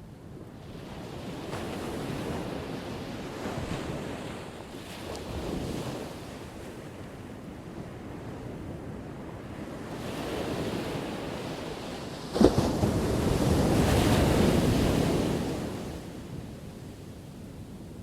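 Ocean surf: waves breaking and washing up the shore in repeated swells, with one sharp crash of a breaking wave about twelve seconds in, followed by the loudest wash.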